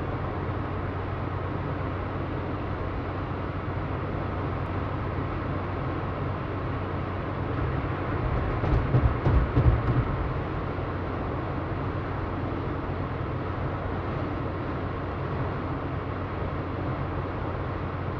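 A motor running steadily with a low hum, growing louder and rougher for a couple of seconds about halfway through, then settling back.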